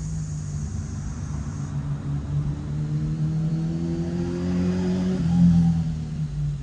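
A motor vehicle engine running, its pitch slowly rising and then dropping about five seconds in, where it is loudest.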